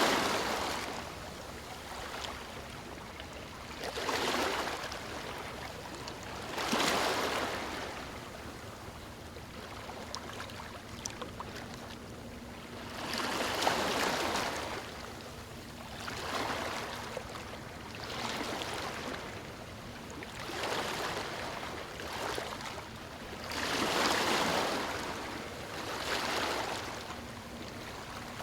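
Small waves breaking on a stony shore: a steady wash of water that swells into a hissing surge every three to four seconds, with a few faint clicks near the middle.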